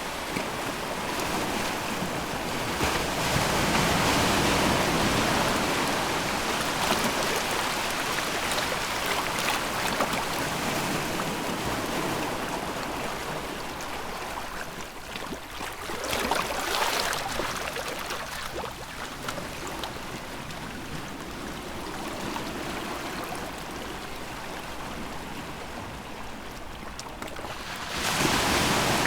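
Sea waves washing against the shore, surging loudest about four seconds in and again around sixteen seconds, with a sudden louder rush near the end.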